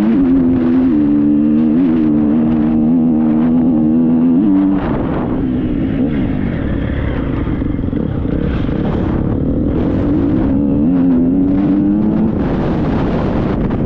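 Triumph 250 motocross bike's engine running hard on a steady throttle, then easing off about five seconds in and rising in pitch again near the end, with wind rushing over the microphone.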